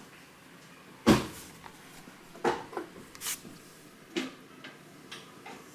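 A handful of separate clunks and knocks, like hard objects or tools being handled and set down, the loudest about a second in.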